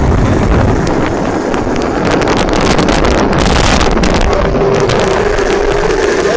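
Heavy wind buffeting the microphone on a moving homemade electric bike driven by a converted alternator motor on 72 volts, with the motor's whine coming up about two-thirds of the way in and rising slightly as the bike gains speed.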